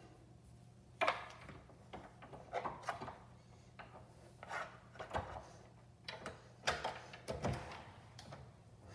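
A door's lever handle being worked and the door unlatched and opened: a scattered series of short clicks and knocks with light rubbing in between.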